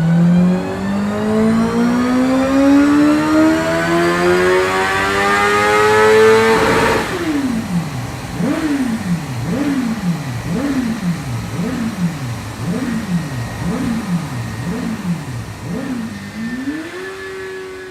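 2012 Honda CBR1000RR inline-four engine pulling at full throttle through the revs on a power-check run, its pitch rising steadily for about seven seconds before the throttle shuts off suddenly. The revs then swing up and down about a dozen times, under a second each, and near the end settle to a steady note.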